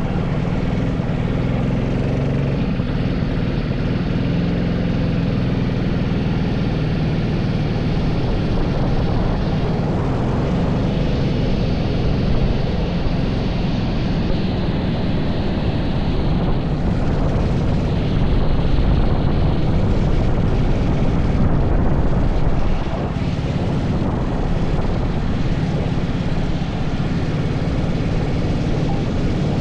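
80cc racing kart engine running hard on track, its revs rising and falling as the kart accelerates and slows, with rushing noise over it.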